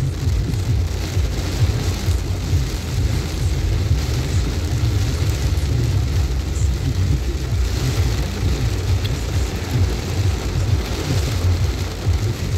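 Torrential rain falling in a steady, heavy downpour, with a strong low rumble underneath.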